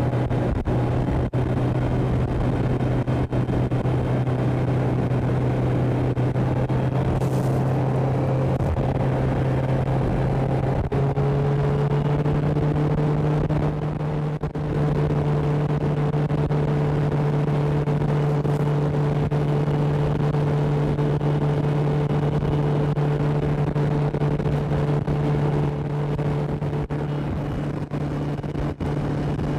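Motorboat engine running steadily while under way, its pitch stepping up slightly about eleven seconds in, over a steady rushing noise.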